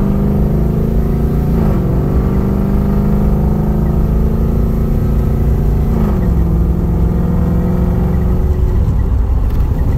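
LS3 V8 accelerating, heard from inside the car's cabin. Its note climbs slowly and drops quickly twice, about two and six seconds in, as the 6L80 six-speed automatic upshifts.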